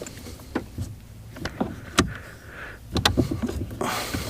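Parts of a Mercury boat remote control being handled and pressed together: a series of scattered clicks and knocks as the pieces fail to line up.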